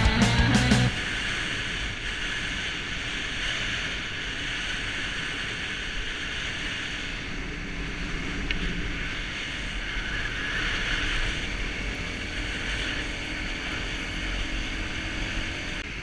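Steady wind rushing over the microphone of a camera riding on a moving motorbike, with low road and engine rumble beneath.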